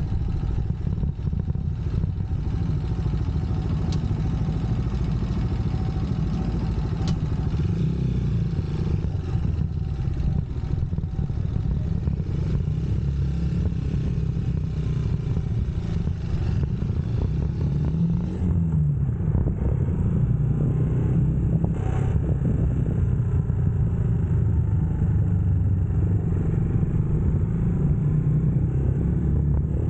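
UM Scrambler X motorcycle engine running steadily while riding, with one brief rise and fall in engine pitch about two-thirds of the way through, over a haze of wind and road noise.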